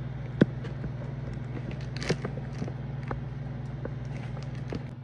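Microwave oven running, a steady low hum, with a few sharp clicks over it, the loudest about half a second in.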